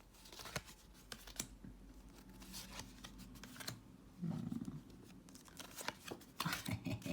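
Tarot cards being handled and laid down: a string of soft clicks, taps and rustles of card stock, with a short low hum-like sound about four seconds in.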